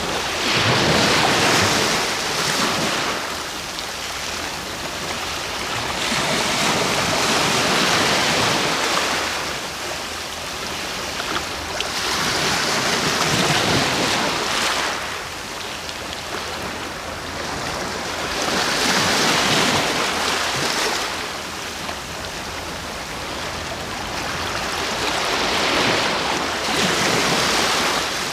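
Ocean waves breaking and washing up the shore, swelling and fading in slow surges about every six seconds.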